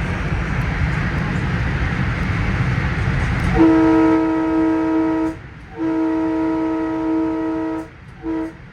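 Train running along the rails, then the horn of a Long Island Rail Road M3 electric train sounding for a grade crossing: two long blasts and a short one, the start of the long-long-short-long crossing signal. The horn comes in about three and a half seconds in.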